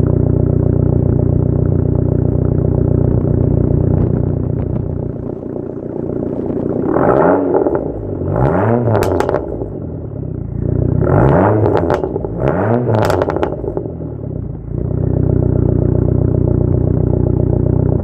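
2004 Dodge Neon SRT-4's turbocharged 2.4-litre four-cylinder, breathing through a 3-inch catless MPx exhaust, idles on a cold start and is then blipped four times, in two pairs, each rev rising and falling. Sharp cracks come from the exhaust after the second and fourth blips, and then the engine settles back to a steady idle.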